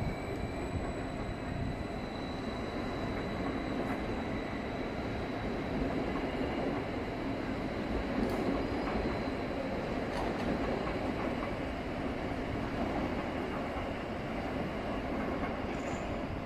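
Train running on the tracks through the station: a steady rumble with a faint high whine that fades away and a few light clicks of the wheels.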